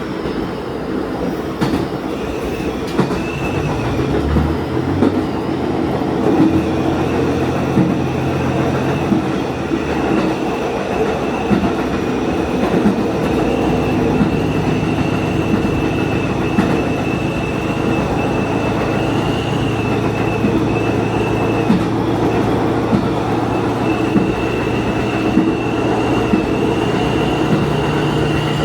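Diesel railcar running along the line: the engine's low hum shifts in pitch a few times, a steady high whine sits above it, and the wheels tick over rail joints at a regular pace.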